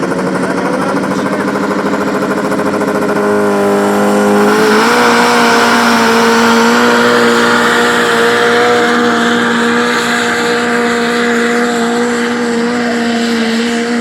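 Competition tractor-pulling engine under power. It runs at a steady pitch, climbs quickly about four seconds in, then holds a higher, even pitch with a loud rushing noise over it.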